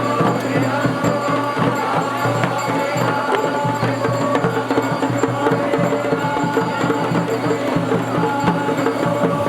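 Dhol and damau drums playing traditional Garhwali processional music: a fast, even drum rhythm with a steady held melody above it.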